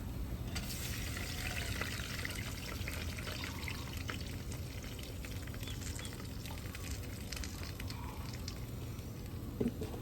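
Food sizzling in hot olive oil in a frying pan. The sizzle starts sharply about half a second in, as if ingredients were dropped into the oil, then settles to a lighter crackle. There is a short knock near the end.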